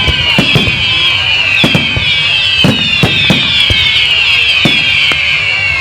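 Firework display going off with rapid, frequent bangs and a dense chorus of overlapping whistles that keep falling in pitch.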